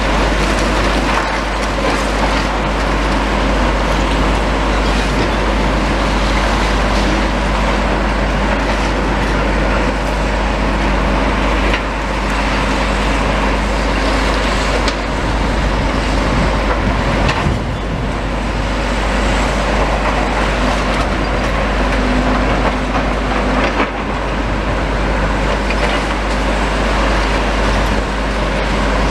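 Heavy demolition machinery working: a steady engine drone with occasional knocks and clatter.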